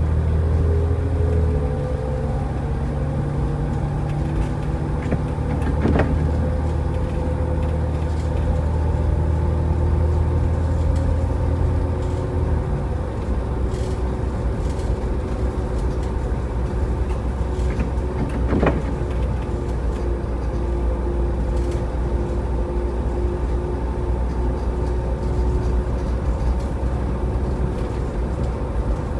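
Car driving: a steady low hum of engine and road noise, with the engine note dropping a little under halfway through. Two brief sharp sounds stand out, about six seconds in and again about two-thirds of the way through.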